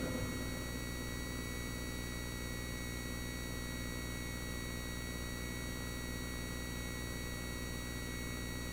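A Cirrus light aircraft's piston engine running at low taxi power: a steady drone with several steady high tones over it.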